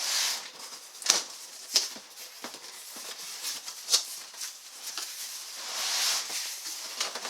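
Rustling of packaging and parts being handled during unboxing, with a few sharp clicks and knocks about one, two and four seconds in.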